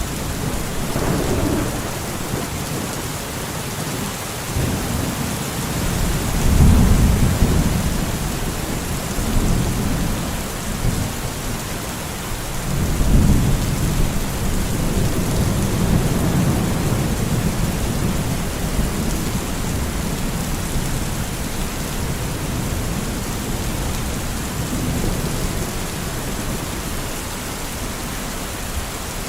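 Steady rain with rolling thunder, rumbling up about six seconds in and again, longer, about thirteen seconds in.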